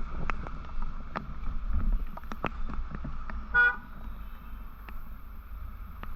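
A vehicle horn gives one short honk about three and a half seconds in, over steady low road and wind rumble with scattered small clicks.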